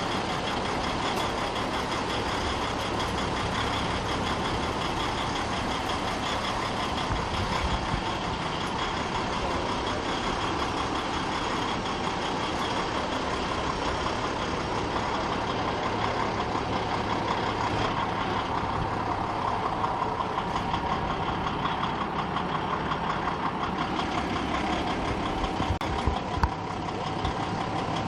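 Rally trucks' diesel engines idling steadily, with a steady whine that dips slightly in pitch after about twenty seconds.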